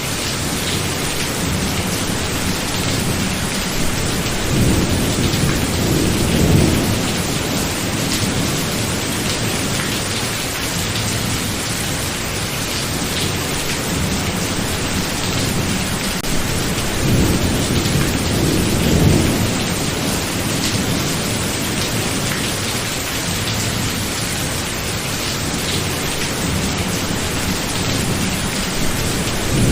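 Thunderstorm: steady rain hiss with low rolls of thunder, one about five seconds in and another around seventeen to nineteen seconds.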